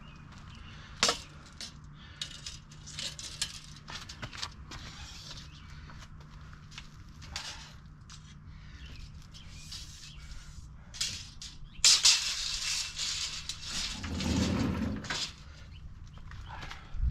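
Scattered clicks, taps and rustles of hand work with tools. A louder rustling scrape starts about twelve seconds in and lasts a few seconds.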